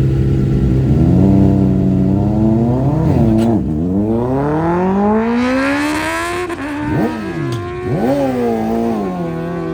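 A car engine holding a steady note, then revving up and accelerating hard, its pitch climbing and dropping sharply several times as it shifts through the gears on a drag strip run. It gets gradually quieter as the car pulls away.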